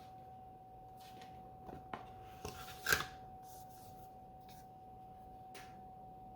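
Handling of a Blu-ray case and disc: a few short plastic clicks and rubs, the sharpest about three seconds in, over a faint steady high hum.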